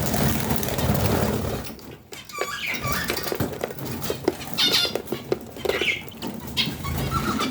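Pet birds in a cage: a rustle of fluttering wings for the first couple of seconds, then scattered short high chirps and squeaks.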